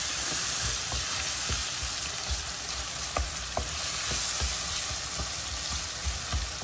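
Onion-tomato masala sizzling in oil in a non-stick kadhai while being stirred with a plastic spoon. The spoon scrapes and knocks softly against the pan now and then.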